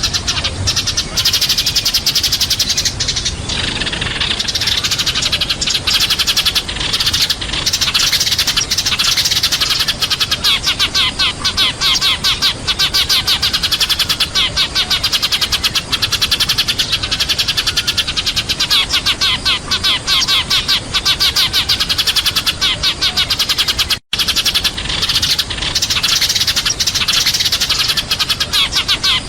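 A flock of sparrows chirping in a dense, continuous chatter, many short chirps a second: the flock-calling chatter used as a lure call. The sound cuts out for an instant about three-quarters of the way through.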